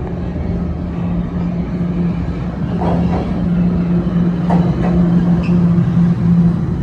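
TTC Line 1 subway train running through the station: a steady low hum and rumble, with a few short knocks about halfway through, growing slightly louder toward the end.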